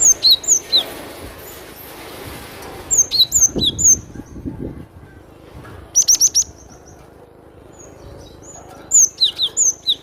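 Cinereous tit (glatik batu) singing crisp phrases of short, high notes, each sweeping down in pitch. Four phrases come a few seconds apart, one of them a rapid run of notes about six seconds in.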